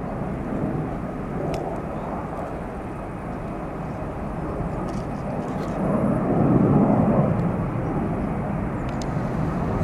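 Airbus A380-800 jet engines rumbling on takeoff, a steady deep roar that swells about six seconds in.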